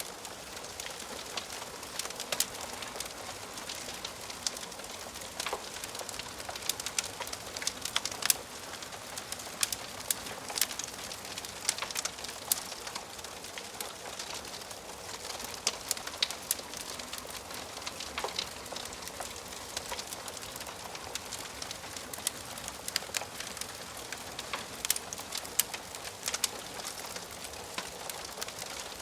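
Wood fire burning in a fireplace: a steady soft hiss with irregular sharp crackles and pops from the burning logs, several a second at times.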